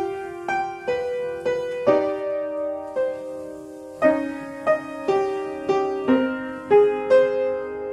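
Piano accompaniment for a ballet barre exercise: an unhurried melody over sustained chords, with a new note or chord struck about twice a second.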